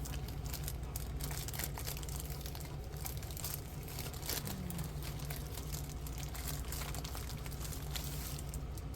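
Plastic packaging crinkling and crackling as it is handled, with many small crackles over a steady low hum.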